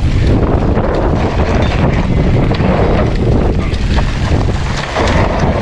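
Wind buffeting the microphone of a mountain bike on a dirt trail, a steady heavy rumble with scattered rattling knocks from the bike over rough ground.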